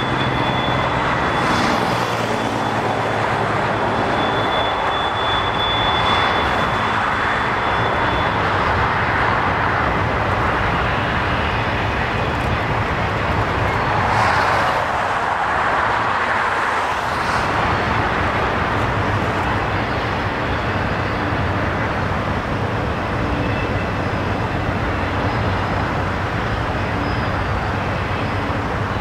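Intermodal freight train's double-stack container cars rolling along the track: a steady rush of wheel-on-rail noise, with a thin high tone over roughly the first third.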